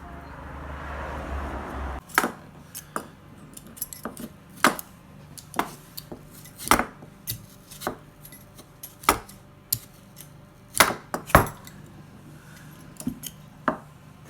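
Kitchen utensils and dishes being handled and set down on a counter: a string of irregular sharp clinks and knocks, about a dozen, some close together. It follows a brief rushing noise that cuts off abruptly about two seconds in.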